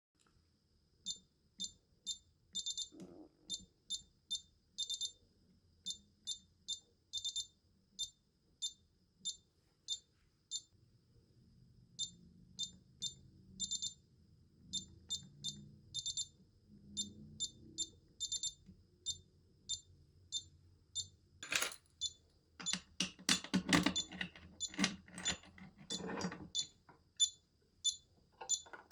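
Small electronic alarm device beeping in short, high-pitched beeps, about one to two a second and some in quick pairs. About two-thirds of the way through, louder clicks and knocks of the device being handled join in.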